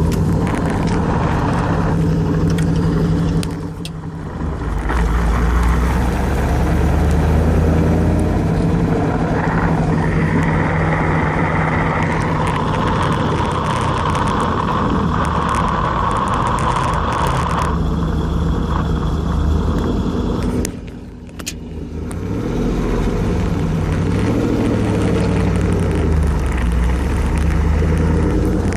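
LS1 V8 engine running in a car with a T56 six-speed manual gearbox, with a grinding noise from the drivetrain. A higher steady note runs from about ten to eighteen seconds in, and the sound drops away briefly about four seconds in and again about twenty-one seconds in.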